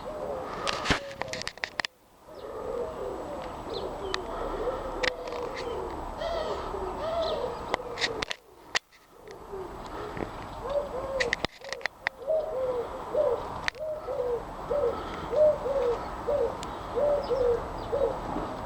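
Pigeons cooing: a run of short, low, arched coos repeated over and over, coming quickly and regularly in the second half. Faint high chirps from small birds and a few sharp clicks are heard now and then.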